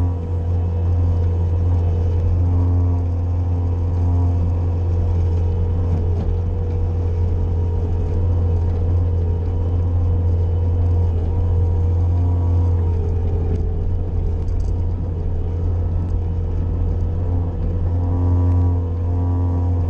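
Bobcat skid-steer loader's engine running steadily under work, with a low drone and a steady whine. An extra higher note rises over it a few times, most clearly near the end.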